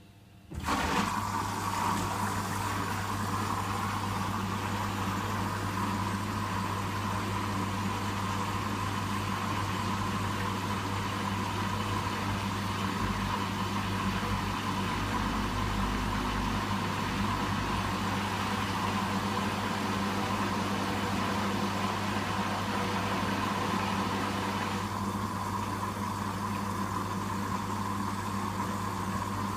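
Hoover WDYN 11746 PG8 washer-dryer starting up abruptly about half a second in and then running with a steady, even hum during its rinse-and-spin phase.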